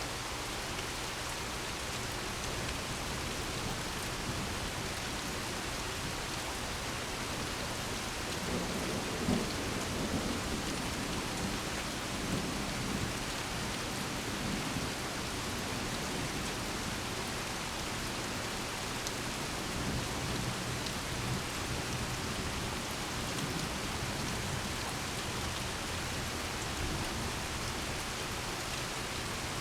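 Steady rain falling throughout. Rolling thunder rumbles in about eight seconds in, strongest just after nine seconds, and dies away over several seconds; a fainter rumble follows around twenty seconds in.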